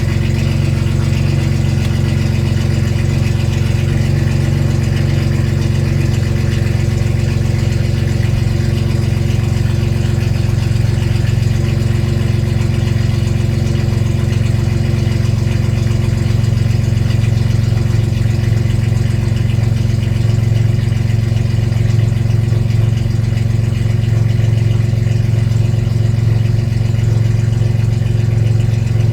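BMW E39 528i's 2.8-litre straight-six idling steadily on a cold start, a low even exhaust note with no revving.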